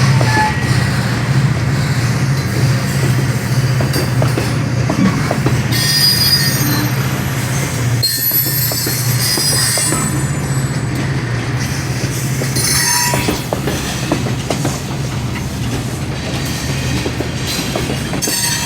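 Freight train rolling past, with a steady low rumble of wheels and cars and several high-pitched wheel squeals, about 6, 9 and 13 seconds in and again near the end.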